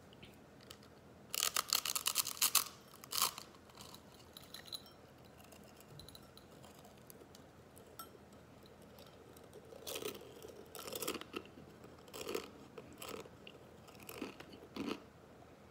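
A brick of dry, uncooked chicken instant ramen noodles being crunched: a quick run of sharp cracks about a second in, then bursts of crunchy chewing through the second half.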